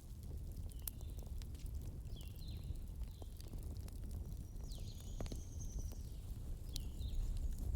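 Wood fire burning in a fireplace: scattered sharp crackles and pops over a low steady rumble, with several short high whistling chirps that dip in pitch.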